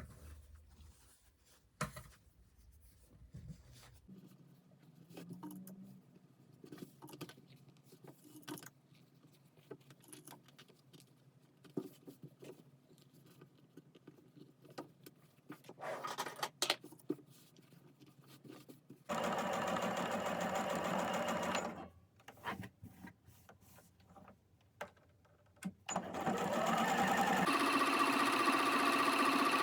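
Sewing machine stitching fabric in two runs: a short burst about two-thirds of the way through and a longer steady run starting near the end. Before that, only faint clicks and handling of fabric.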